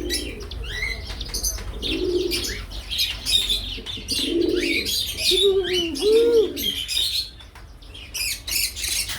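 Several birds chirping with quick high calls throughout, mixed with a few low cooing calls.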